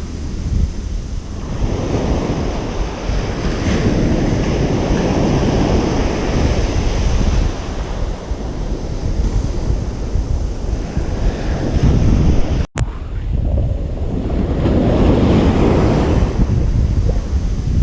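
Ocean surf on a beach: waves breaking and washing in and out in slow swells, with wind rumbling on the microphone. About two-thirds of the way through, the sound cuts out for an instant with a click, like an edit splice.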